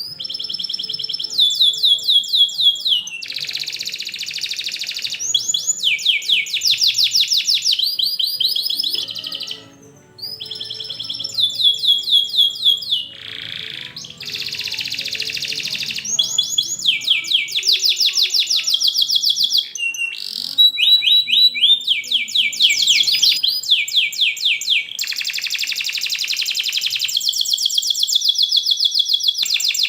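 Domestic canary singing a long, dense song: trills of rapidly repeated notes, each run lasting a few seconds before the bird switches to a higher or lower trill, with brief pauses twice partway through.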